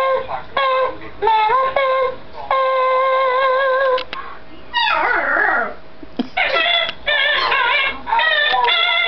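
Pet bird singing along with a person: a string of long held, high notes with gaps between them, and a tangle of downward-swooping glides about five seconds in.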